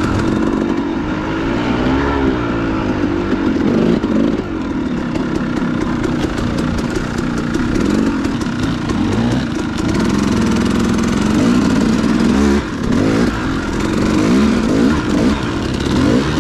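Dirt bike engine running under load, revving up and down with the throttle. A light clatter of clicks joins it in the middle.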